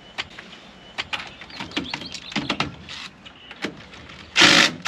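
Metal tools clinking and knocking, then near the end a short, loud burst from an impact wrench working a fastener on the truck's front end.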